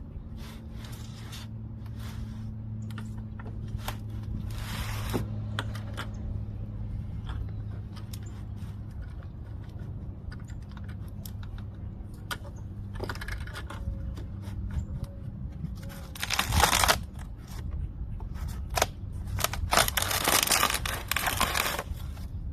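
Scraping, rustling and clicking handling noises in separate bursts, the loudest near the end, over a steady low hum: the drained-oil bucket and gear being moved about under a Sprinter van at the end of an oil change.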